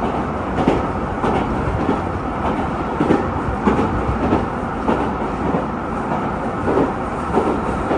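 JR Kyushu YC1 hybrid railcar running along the line, heard from inside the carriage: a steady rumble with a recurring clickety-clack of wheels over rail joints about every half second.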